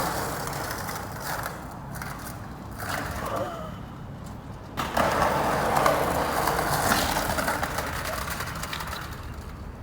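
Skateboard wheels rolling over pavement, a rough steady rumble that gets suddenly louder about five seconds in and then slowly fades.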